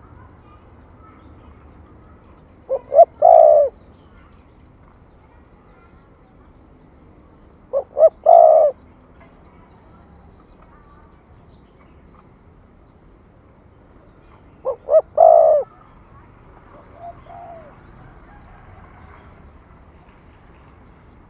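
Spotted dove cooing: three phrases about five to seven seconds apart, each two short notes followed by a longer, drawn-out coo. A faint short call follows the last phrase.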